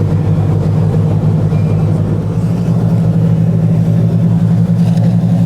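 Party fishing boat's engine running steadily: a loud, even, low hum with no change in pitch.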